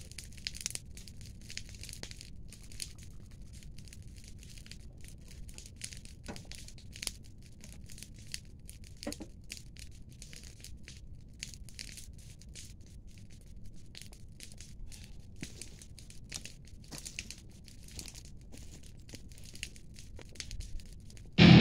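Irregular soft crackling and rustling: a scatter of small clicks and snaps over a low steady rumble, with no rhythm.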